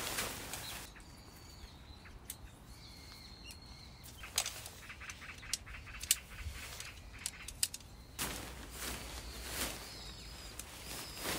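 Birds calling with short whistled chirps, amid rustling and a few sharp clicks. A quick run of ticks comes about five seconds in.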